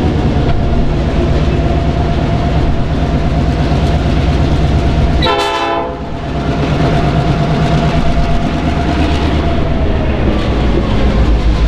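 Diesel-hauled train running, a loud, heavy rumble with a steady high tone over it and a brief dip about halfway through.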